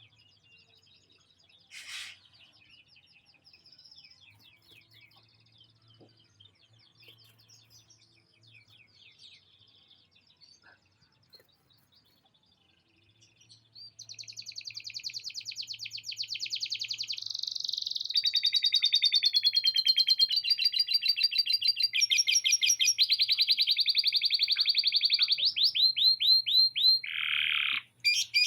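Canary singing: faint scattered twitters at first, then, about halfway through, a loud, long song of very fast trills that change every second or two, with a run of downward-sweeping notes near the end.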